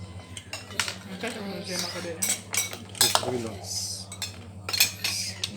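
Cutlery clinking and scraping against plates and dishes, a string of sharp clinks through the whole stretch, over a steady low hum.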